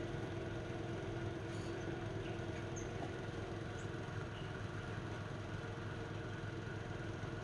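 A steady machine hum with a constant low rumble and a few faint ticks.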